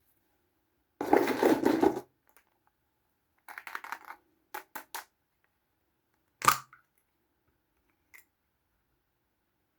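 Small plastic Kinder Surprise toys and their packaging handled close to the microphone: about a second of dense rustling, then a run of light clicks and taps, and one sharp click, the loudest sound, followed near the end by a faint tick.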